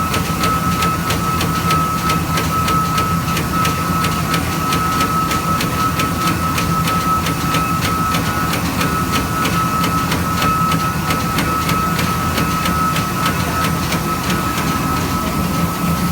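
Eight-spindle CNC machine running: a steady high spindle whine over a low hum, with rapid, evenly spaced ticking.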